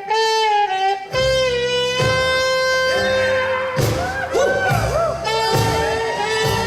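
Live band music for a cabaret song. A long held note sounds about a second in, then a melodic line runs over a steady bass and drum beat.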